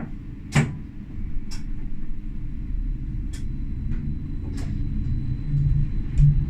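Tram running, heard from the driver's cab: a steady low rumble with a handful of sharp clacks and knocks, the loudest about half a second in. The rumble grows louder toward the end.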